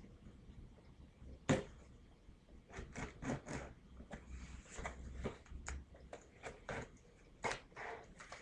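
Handling and opening a cardboard package: a sharp knock about a second and a half in, then a busy run of clicks, rustles and scrapes as the box is worked open.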